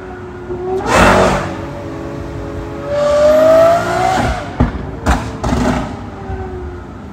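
Sports car engine revving and accelerating: a loud burst about a second in, then a rising engine note, followed by two sharp cracks and a further short burst.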